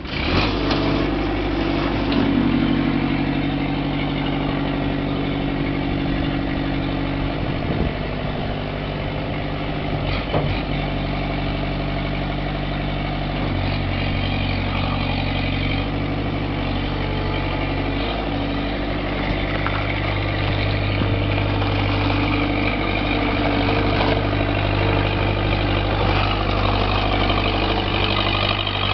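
New Holland L553 skid steer's Kubota V-1902 four-cylinder diesel starting at the outset and then running steadily, its note shifting a couple of times partway through.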